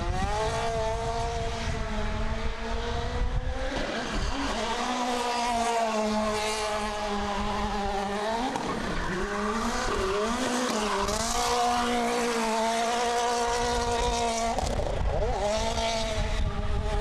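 Rally car engine running hard at high revs, its pitch held, then dropping and climbing again several times as the driver lifts and changes gear.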